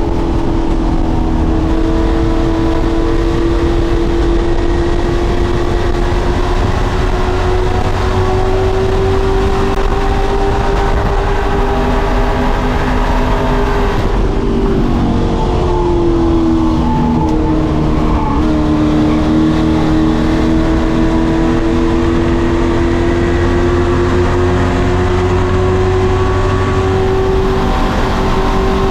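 Pro Truck racing engines running hard on the oval, a continuous loud engine note. About halfway through, the pitch drops and tangles with other engine notes, then climbs back up as the throttle comes back on.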